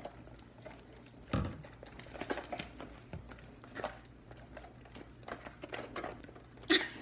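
Slime being stirred in a container with a utensil: scattered soft clicks and rustles, with one sharper knock about a second and a half in.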